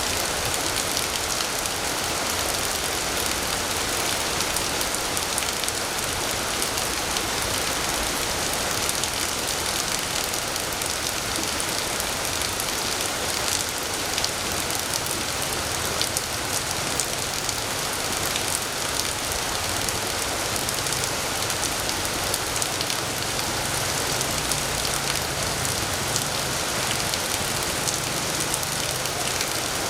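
Heavy rain falling steadily: a dense, even hiss of downpour with the fine patter of drops striking surfaces.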